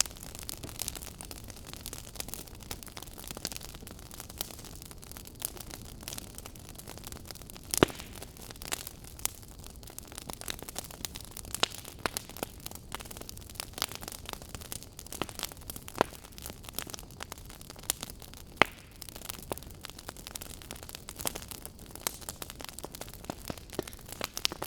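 Fire crackling: irregular sharp pops and snaps over a steady low hiss, with two louder pops, about eight seconds in and near nineteen seconds.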